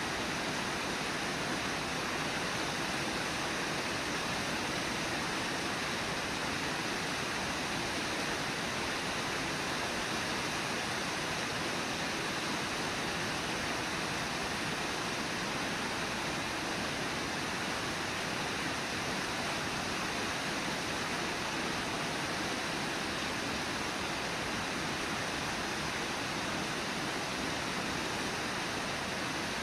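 Brooks River rushing steadily over shallow riffles: a constant, even sound of flowing water.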